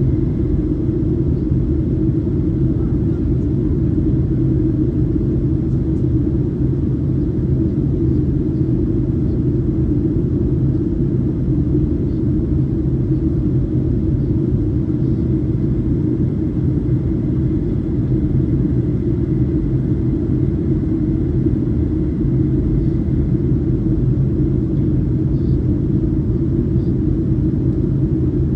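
Steady cabin drone of a Boeing 737-800 with CFM56-7B turbofans: engine and airflow noise, a deep even rumble with a low hum in it that does not change.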